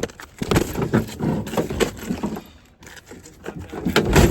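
A run of irregular knocks and scrapes, dropping off briefly in the middle, then a loud bang near the end.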